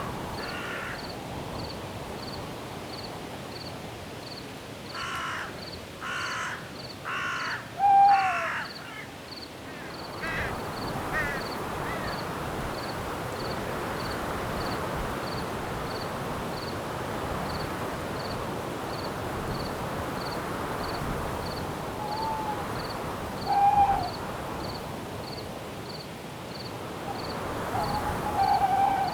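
Night forest ambience: crickets chirping steadily, about one and a half chirps a second, over a wind-like hiss. A bird gives four harsh calls in a row about five seconds in, the last the loudest, with a few shorter calls later.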